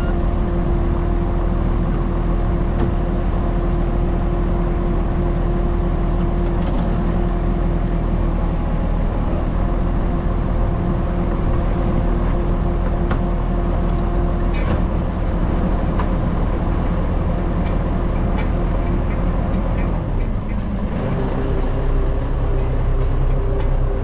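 A motor running steadily with a constant hum; about 20 seconds in its pitch shifts and it settles at a new steady note.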